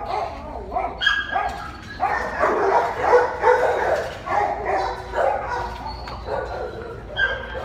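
Several dogs barking repeatedly, their short barks overlapping, busiest in the middle of the stretch.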